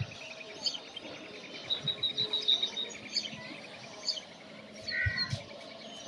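Small birds chirping and calling, with a fast run of repeated high notes through the first half and scattered chirps after, plus a few brief low thumps.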